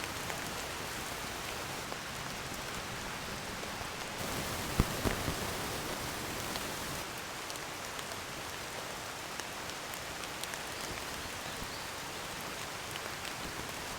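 Steady rain falling, with scattered drops ticking. About four seconds in, it gets a little louder for a few seconds, with two sharp knocks close together near the fifth second.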